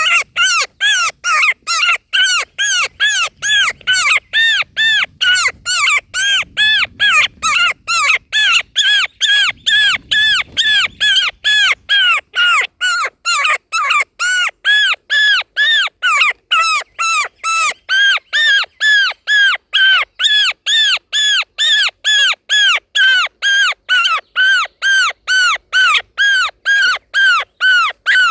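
Indian roller chick calling over and over in the nest: short, harsh calls, each rising then falling in pitch, repeated steadily at about two a second.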